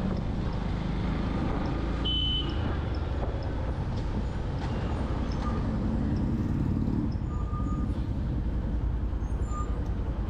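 Riding a motorcycle through busy city traffic: a steady low rumble of engine and road noise, with a few short high toots of vehicle horns, one about two seconds in and two more near the end.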